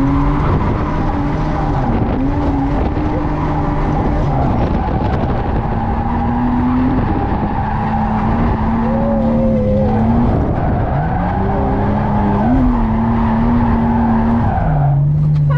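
Drift car held at high revs through a slide, its engine note wavering and dipping briefly a couple of times, over steady tyre scrub and squeal. Near the end the engine comes off the throttle and its pitch falls.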